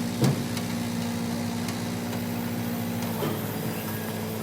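An engine running steadily, with a short knock just after the start and a change in its note about three seconds in.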